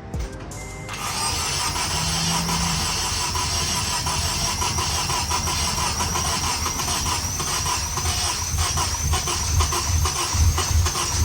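Starter motor cranking the 2009 Honda Civic Si's 2.0-litre K20 four-cylinder engine, a steady whirring crank with a high whine that begins about a second in and runs for about ten seconds. It is a long crank of the freshly rebuilt engine, which has not yet caught.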